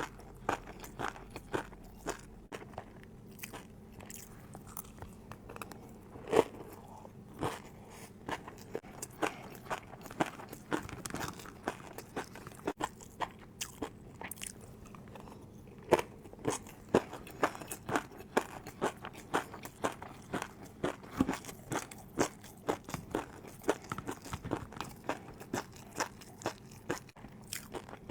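Close-miked eating: crisp bites and crunching chews of fried noodles, a rapid run of short sharp crunches, several a second.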